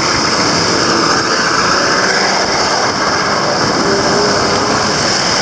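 Steady street traffic noise: vehicle engines running and tyres hissing on the road, with no breaks.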